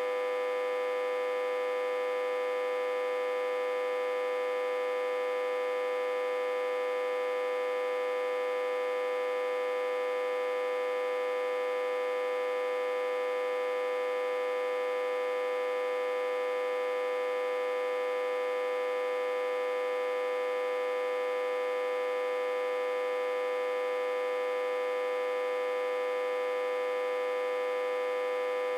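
Autotransformer humming with a steady, unchanging electrical buzz that has one strong high tone and many overtones. It is reverse-connected to a step-down transformer with the input set to about 60–80 V, which makes it hum this way.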